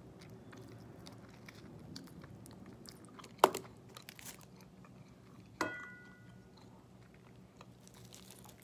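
Chewing and biting on chicken wings close to the microphone, with faint mouth clicks and smacks. There is one sharp smack about three and a half seconds in, and a knock a little after halfway followed by a brief high ringing tone.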